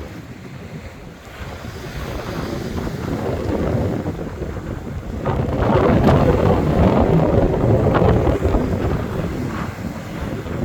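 Rough sea waves crashing on a beach while strong wind buffets the microphone. The surf swells louder about halfway through and stays loud for a few seconds before easing.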